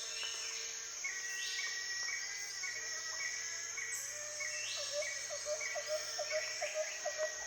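Outdoor ambience of birds and insects: a steady high insect drone with short chirps repeating several times a second, and an occasional rising sweep.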